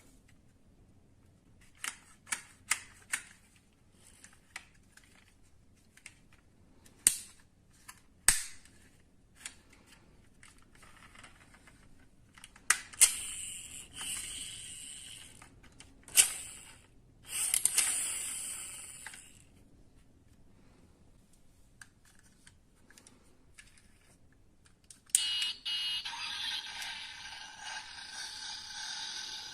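Die-cast metal model cars being handled: scattered small clicks and taps of metal and plastic parts, a few longer scraping or rolling sounds, then a steady whirring noise from about 25 seconds in.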